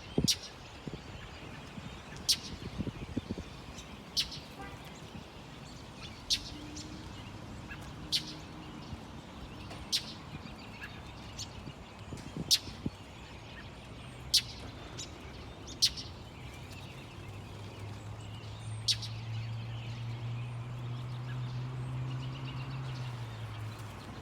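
A bird calling: short, sharp high notes repeated about every two seconds. A low steady hum comes in partway through and grows louder in the second half.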